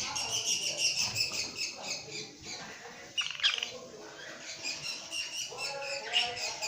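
Many caged lovebirds chirping and squawking at once, in a constant overlapping chatter, with a louder burst of squawks about three and a half seconds in.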